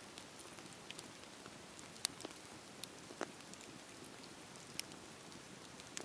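Wood fire crackling in a fireplace: a soft steady hiss broken by a handful of sharp pops and snaps, the loudest about two seconds in.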